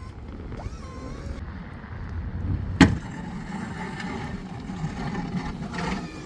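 Snow-plow truck engine running with a steady low rumble, with a single sharp knock about three seconds in.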